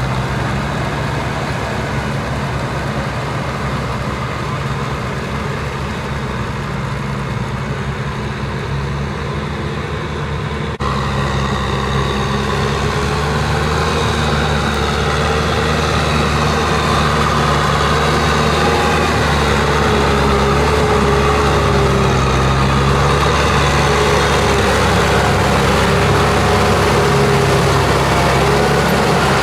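Diesel engine of a Kubota M6040SU tractor running steadily. About eleven seconds in the sound changes abruptly and becomes louder and deeper, with a wavering higher whine over the engine.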